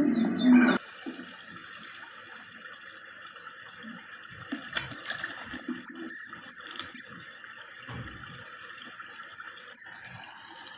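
Myna calling: short, high chirps and whistles in two clusters, about five seconds in and again near the end, over a steady background hiss.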